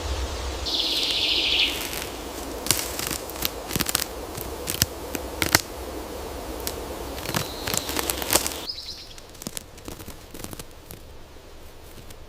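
Outdoor natural ambience with a run of sharp, irregular clicks and crackles over several seconds, then a brief high chirp after the background suddenly drops.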